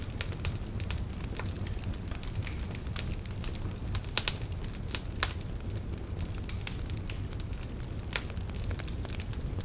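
Wood campfire burning, with a steady low rumble of flame and irregular sharp crackles and pops from the burning wood, a few louder snaps near the middle.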